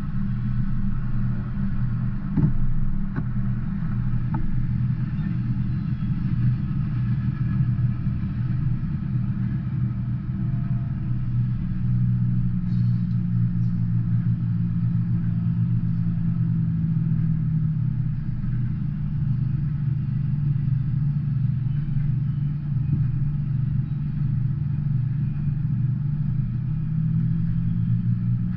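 Double-stack intermodal freight train rolling past, a steady low rumble of wheels on rail, heard through a window, with a couple of sharp knocks about two to three seconds in.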